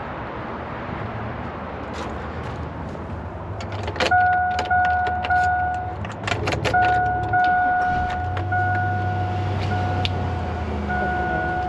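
Keys clicking and rattling in a truck's ignition, then the vehicle's warning chime dinging repeatedly, about once a second, over a low steady rumble.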